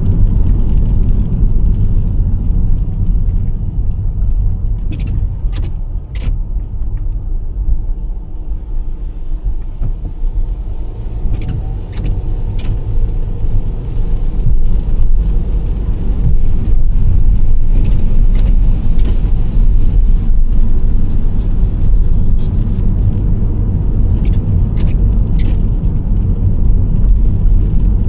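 Nissan Serena C25 minivan driving at road speed: a steady low rumble of tyres and engine, with sharp ticks in groups of three about every six seconds.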